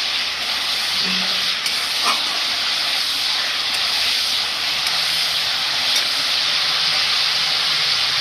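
Whole spices (bay leaves, dried red chillies, cardamom, cinnamon, cloves) frying in hot oil in a pan: a steady sizzling hiss with a few faint pops.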